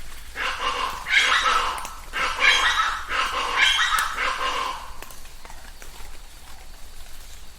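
Chachalacas calling loudly in a harsh, rhythmic chorus for about four and a half seconds, then stopping, over the faint ticking of light rain dripping.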